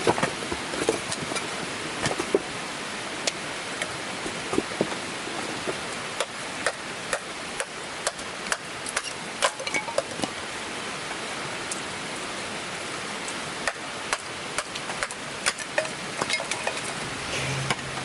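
Steady rain falling, with many scattered sharp drops tapping close by. A low steady hum starts near the end.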